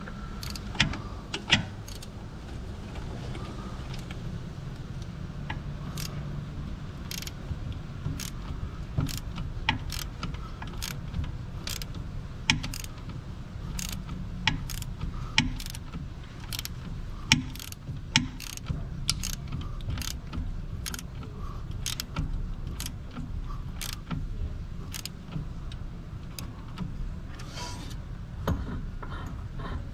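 Hand tools and metal parts clinking and clicking in irregular, sharp knocks, about one or two a second, over a steady low hum.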